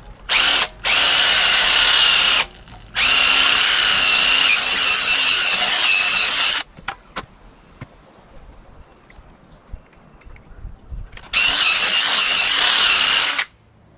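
Electric drill spinning a wire brush, scrubbing rust and corrosion out of the inside of an old ball-joint collar in an aluminum strut arm. It runs in bursts with a steady whine: a short blip, then runs of about two and three and a half seconds, a pause with a few clicks, and a last run of about two seconds near the end.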